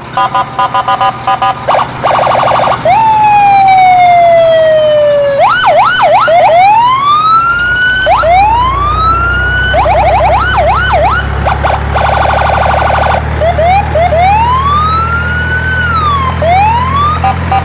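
Electronic siren sounds: fast beeping, a long falling tone, then a series of rising whoops and wails. A low steady hum joins about halfway through.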